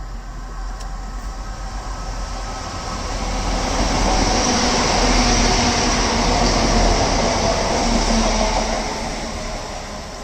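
A train passing through the station, growing louder to a peak about halfway and then fading away.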